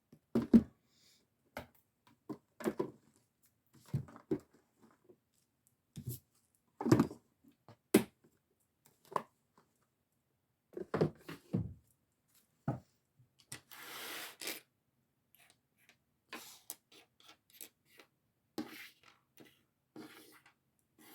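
Oracle cards being handled: scattered light taps and clicks, with a short papery rustle about fourteen seconds in.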